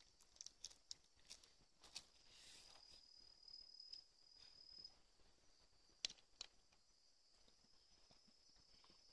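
Faint, steady, high-pitched insect chirring, with scattered light clicks and taps; two sharper clicks come about six seconds in.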